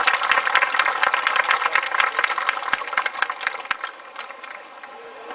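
Audience applauding with a dense patter of claps that dies away about four seconds in.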